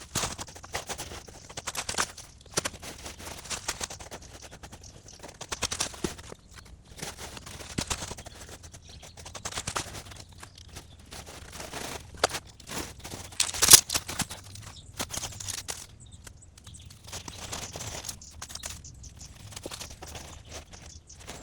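Irregular crunching and rustling, with a sharp crack about fourteen seconds in.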